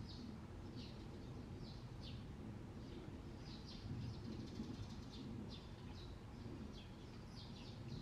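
A bird calling in short, high, sharply falling chirps, about one every half second to a second, over a steady low rumble.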